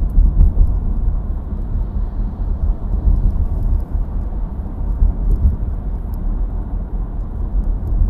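Steady low rumble of a car travelling along a motorway: engine and tyre road noise, with no siren audible.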